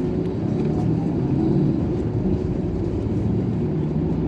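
Airport apron shuttle bus running steadily, its engine rumbling, heard from inside the bus.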